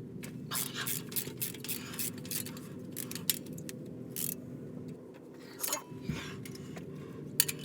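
Irregular metallic clicks and scrapes of hand tools working the spark plug boots and plugs out of the engine, one after another, over a steady low hum.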